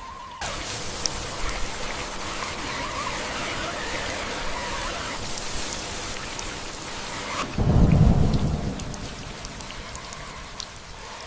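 Steady hiss of heavy rain, with a loud, deep rumble of thunder about eight seconds in that slowly fades.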